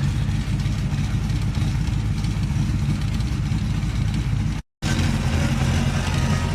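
Steady low drone of a car's engine and road noise while driving. The sound cuts out completely for a moment about four and a half seconds in, then returns unchanged.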